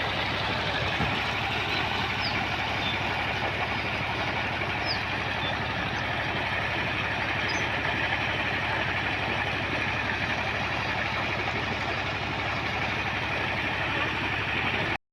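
Engine of an earth-digging machine running steadily with an even, fast firing rhythm, cutting off abruptly near the end.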